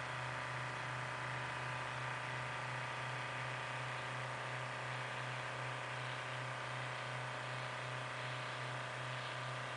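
A steady mechanical hum, even and unbroken, with a strong low drone and fainter steady higher tones, like an engine idling.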